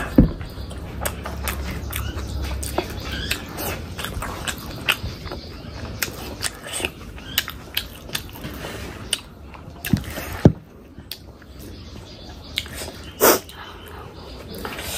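Close-miked chewing and biting: many short, wet clicks and smacks of a mouth eating, with a few louder ones.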